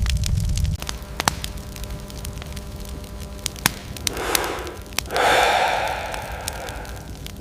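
Crackling fire with scattered sharp pops. About four seconds in, a short breathy rush is heard, then a louder, longer one that slowly fades.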